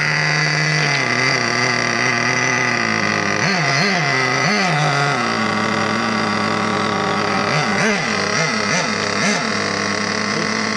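1:8-scale RC car's motor running steadily, with a few quick revs up and down about halfway through and a cluster of short revs later on.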